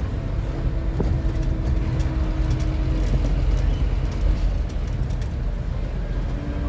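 Scania N230UD OmniCity double-decker bus heard from on board: its diesel engine and drivetrain rumble steadily, with a thin steady whine at times and occasional faint rattles.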